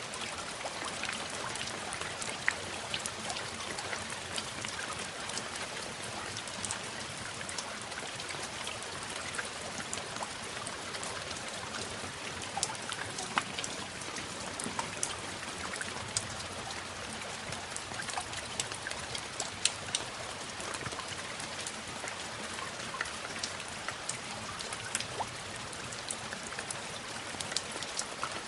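Steady rain with many separate drops ticking sharply on a surface.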